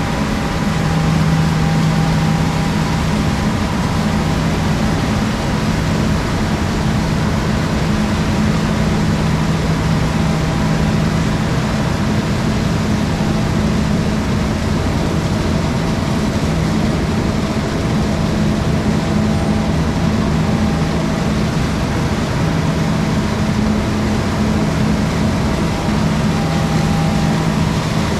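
Large harvest machinery engine running steadily, a constant low hum with a few held tones over broad mechanical noise.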